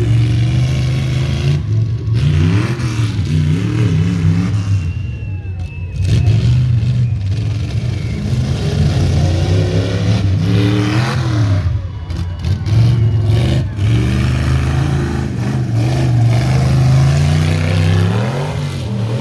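Competition off-road truck's engine revving hard and dropping back again and again as it charges over the obstacle course.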